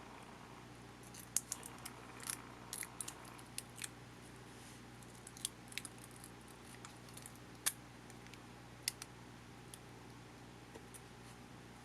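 Small sharp clicks and taps at irregular times, typical of tools and fingers handling the small plastic and metal parts of a camcorder being worked on, over a low steady hum.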